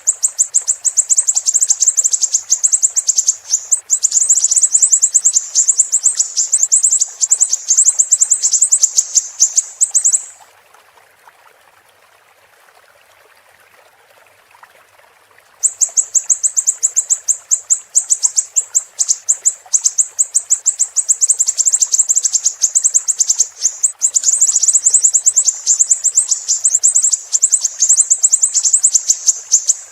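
Siri-siri bird calling in a rapid, high-pitched run of piercing notes. The calls break off about a third of the way in for roughly five seconds, then resume. Faint steady flowing water runs underneath.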